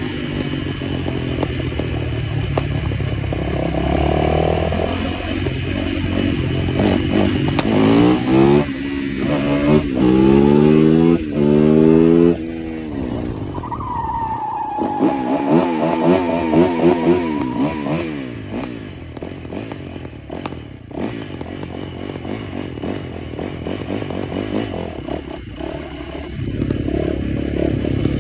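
Small motorcycle engines running throughout, revving up several times in quick succession about a third of the way in before cutting off sharply. Soon after, a higher-pitched engine whine holds steady for a few seconds.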